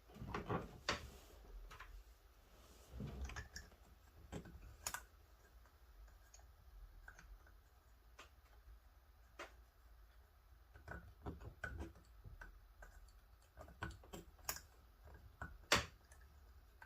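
Scattered light clicks and taps of small parts being handled and fitted on a car door, coming in irregular clusters with quiet gaps between.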